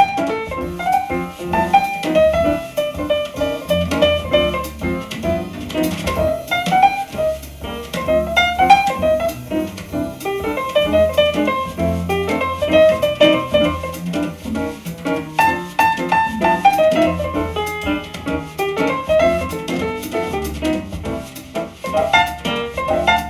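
Jazz piano trio recording, with piano runs over a double bass line, reproduced through a Svetlana EL34 push-pull amplifier and a Feastrex 5-inch field-coil full-range loudspeaker.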